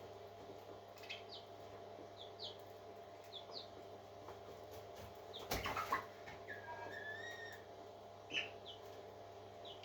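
Parrot chicks peeping in short, high, falling chirps about once a second. About five and a half seconds in comes a brief loud rustling burst, then a short wavering whistled call.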